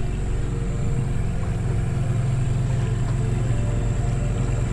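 Small outboard motor running steadily at low speed with a low, even hum, picking up slightly about a second in.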